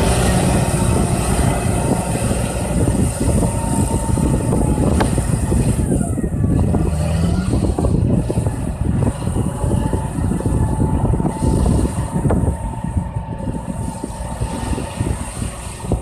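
John Deere tractor's diesel engine running hard under ploughing load, a dense low rumble with its pitch briefly rising about seven seconds in.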